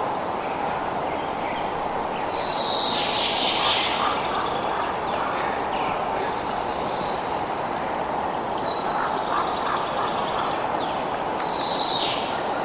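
Birds calling several times, some calls falling in pitch, over a steady rushing noise.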